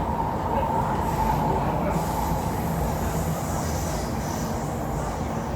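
MTR R-Train electric multiple unit running along the track, a steady rumble of wheels and running noise, with a high whine that fades after about a second and a half.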